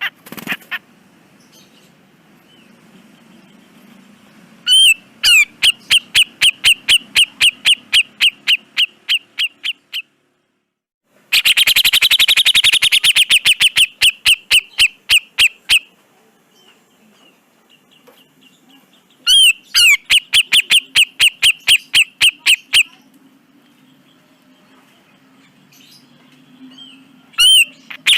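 Cucak jenggot (grey-cheeked bulbul) giving long trains of rapid, harsh repeated notes, about four or five a second, in several bouts separated by short pauses.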